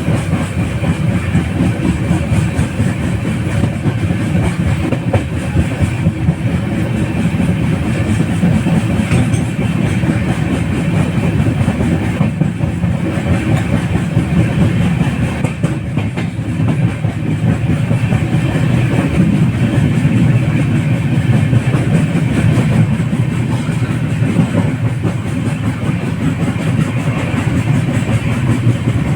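Express train's LHB coaches running at speed, with a steady rumble from the wheels on the track.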